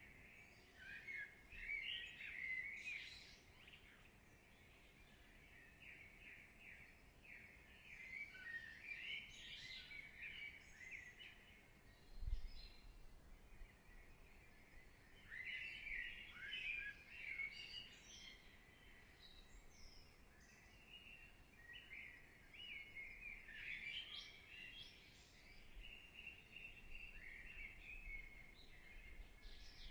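Faint birdsong: songbirds chirping and trilling in short clusters that come and go. A single soft low thump sounds about twelve seconds in.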